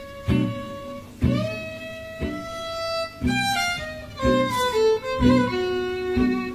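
Instrumental music: a violin plays long held melody notes, sliding up into one about a second in, over acoustic guitar chords struck about once a second.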